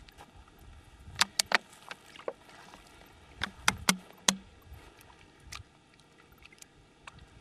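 Sharp knocks of hard objects striking, three in quick succession about a second in and four more a couple of seconds later.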